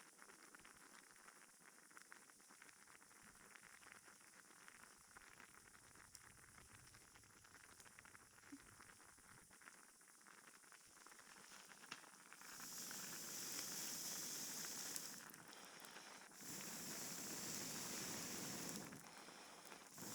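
Campfire crackling faintly with a soft hiss, the hissing growing louder in several stretches of a few seconds each from about halfway through.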